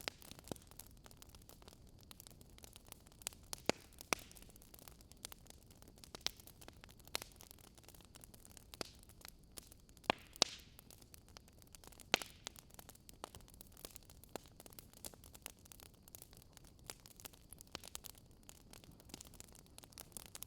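Wood fire crackling: a faint steady hiss with irregular sharp pops, a few louder ones around four, ten and twelve seconds in.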